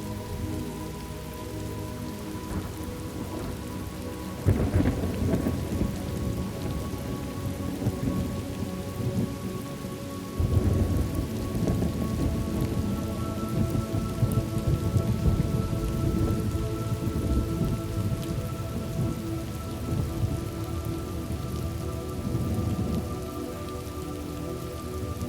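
Thunderstorm ambience: steady rain with a roll of thunder about four seconds in and a longer rumble of thunder starting about ten seconds in that goes on for many seconds. Faint held tones sit under the rain.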